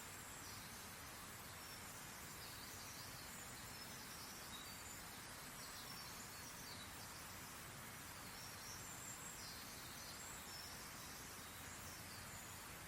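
Faint, high, short chirps of small birds scattered throughout, over a steady hiss.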